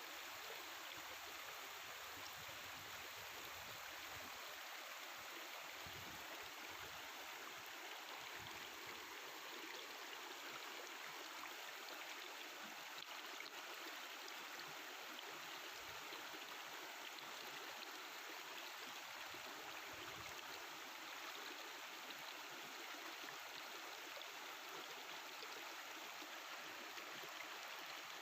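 A mountain river flowing: a steady, even babbling of running water.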